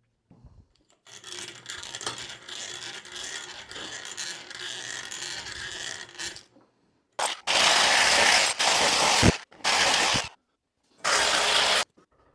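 Scraping and rubbing of a metal pipe being worked for several seconds, then three loud rushing noise bursts of one to two seconds each.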